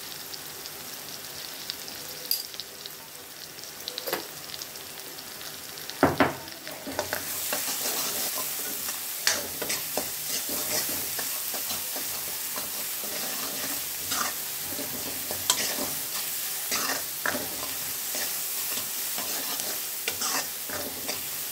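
Chopped onion, green chilli and garlic sizzling in oil in a metal kadhai while a steel ladle scrapes and clinks against the pan as they are stirred. There is a sharp clink about six seconds in, and the sizzling gets louder from about seven seconds on as the stirring picks up.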